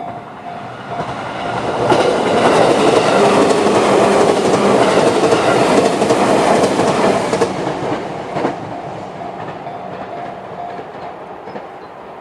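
JR 211-series electric train passing over the level crossing, its wheels clacking over the rail joints. It builds over about two seconds, stays loud for about five seconds, and fades after a last clack. The crossing's JR-standard electronic warning alarm keeps ringing in a steady repeating pattern, heard again under the fading train.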